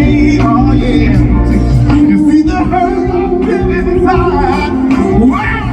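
Male lead vocal singing a soul ballad over a band accompaniment.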